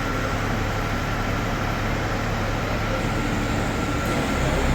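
Steady running of a heavy vehicle or machine: a low hum with a constant high-pitched whine above it.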